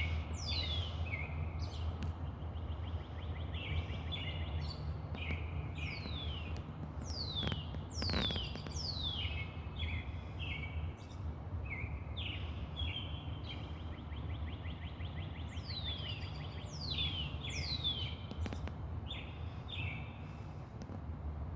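Several songbirds singing over one another, each phrase a falling whistle followed by a short buzzy trill, repeated all through. A steady low rumble runs underneath.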